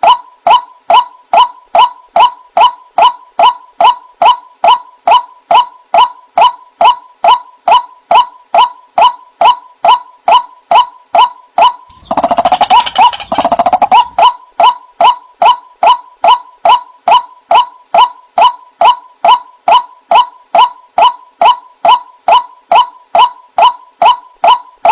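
White-breasted waterhen (ruak-ruak) calling loudly and repetitively, about two short calls a second. About halfway through, a quick rattling run of calls briefly breaks the steady rhythm.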